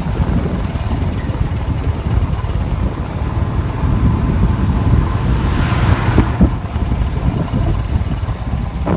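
Royal Enfield Himalayan motorcycle running on the move: a steady low engine rumble with wind buffeting the microphone, and a brief rise in hiss about six seconds in.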